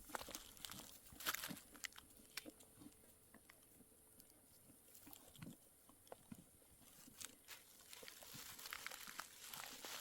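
Faint scattered crunches and clicks, bunched in the first two seconds and again near the end, with a quieter stretch between.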